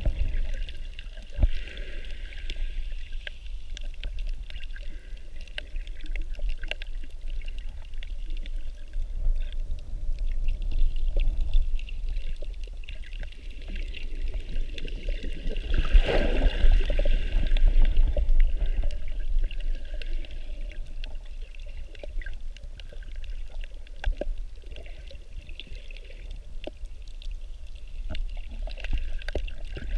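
Water sloshing and gurgling over a steady low rumble, with faint scattered clicks, swelling louder about halfway through: the sound of snorkeling in the sea.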